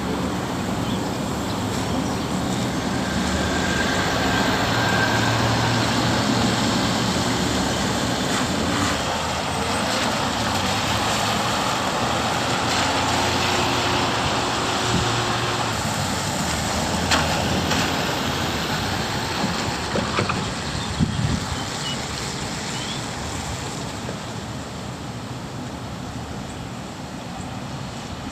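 Street traffic in the rain: vehicles running with a steady low engine hum over an even wash of rain and road noise, easing off somewhat over the last several seconds.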